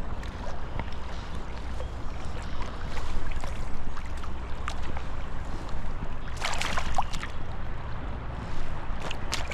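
Wind buffeting the microphone over flowing river water, with scattered small clicks and a brief rustling clatter about two-thirds of the way through.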